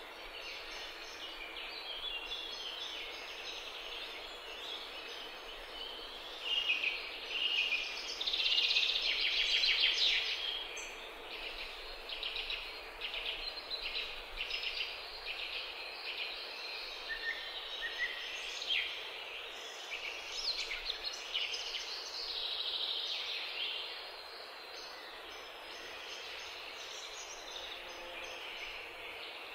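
Birds chirping and calling outdoors, with many short, high calls overlapping, busiest and loudest around ten seconds in.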